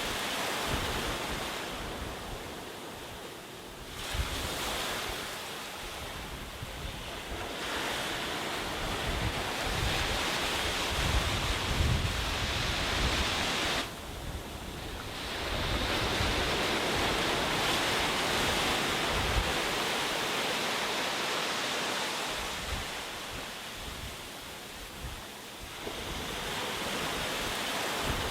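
Sea surf breaking and washing up a beach, swelling and easing in slow surges every few seconds, with wind buffeting the microphone.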